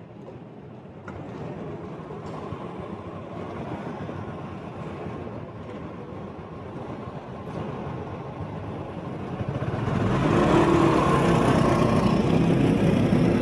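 Road traffic and engine noise heard from a moving motorbike: a steady rumble of engines and tyres that swells much louder about ten seconds in.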